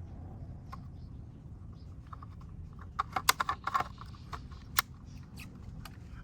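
A quick flurry of small, sharp clicks and taps from small hard objects being handled, then one louder single click, over a low steady hum.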